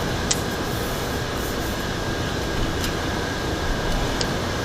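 Steady rushing noise like a running fan or air conditioner, with three faint light clicks.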